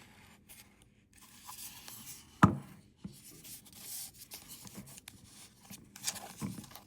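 Handling noise from a small plastic portable espresso machine being turned and rubbed in the hands, with one sharp knock about two and a half seconds in and a few light ticks.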